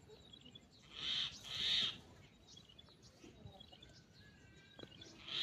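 A bird giving two harsh, rasping calls in quick succession about a second in, with faint chirping from small birds in the background.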